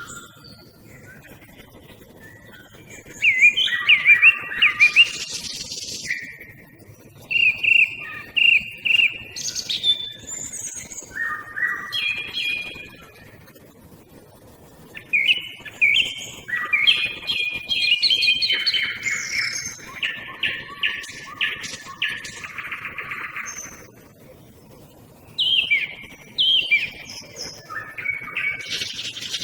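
Song thrush and nightingale singing in turn, a run of loud phrases of quickly repeated notes and trills separated by short pauses. Small birds such as tits call faintly in the background.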